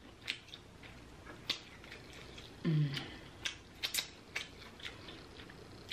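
Close-up eating sounds of chewing corn on the cob: a string of sharp mouth clicks and smacks, with a brief hummed vocal sound about three seconds in.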